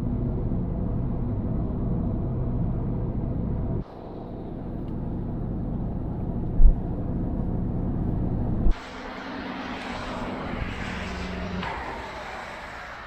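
A vehicle's engine and road noise running steadily, a low hum in three cut-together pieces; the last few seconds have more hiss and rushing noise.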